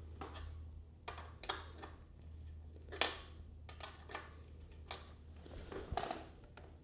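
Scattered, irregular metal clicks and knocks of hand tools working a motorcycle's rear chain adjusters and axle to take up chain slack, with one sharper knock about three seconds in.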